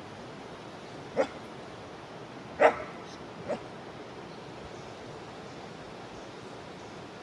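A dog barks three times, the second bark the loudest, over the steady rush of a jungle river.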